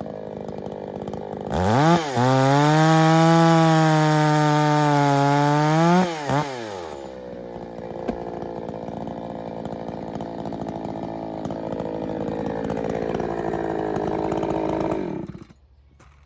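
Echo CS-620P 60cc two-stroke chainsaw with a ported dual-port muffler, running at low speed, then held at full throttle for about four seconds. It drops back to idle for several seconds and is then shut off about fifteen seconds in.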